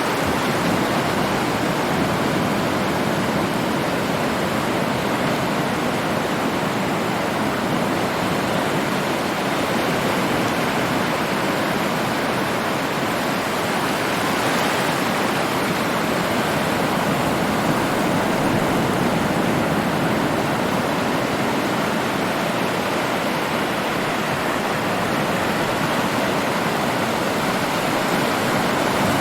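Heavy ocean surf breaking continuously: a dense, steady wash of water noise in which no single wave stands out, rising and falling only slightly in loudness.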